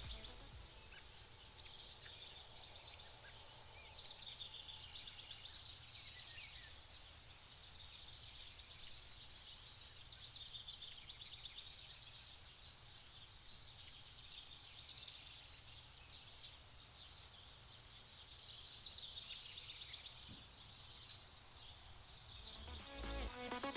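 Several small birds singing and chirping, with quick trills and twitters and a louder call about two-thirds of the way through, over a faint low rumble.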